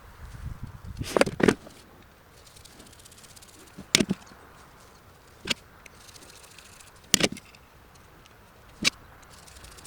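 A series of sharp clicks and knocks, single or in quick pairs, every second or two, like small hard objects being handled or set down.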